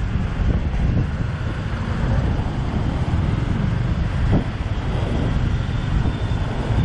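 Wind buffeting the microphone over a motorbike engine running and street traffic.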